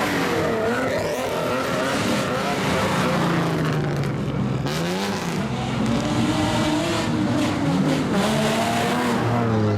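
Several cars' straight-piped exhausts revving up and down over one another, loud and continuous, the pitches of different engines rising and falling at different times.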